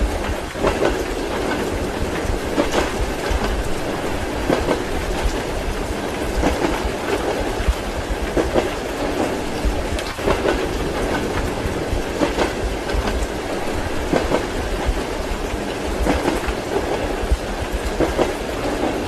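Steady rumble of a moving train carriage's wheels heard from inside, with a clickety-clack over the rail joints about every two seconds and rain noise mixed in.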